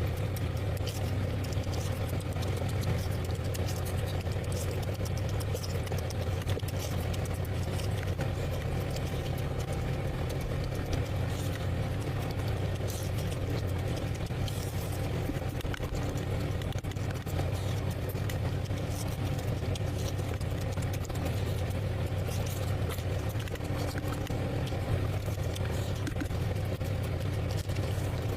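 Close-up eating sounds: wet chewing and lip-smacking, many small quick clicks, over a steady low hum.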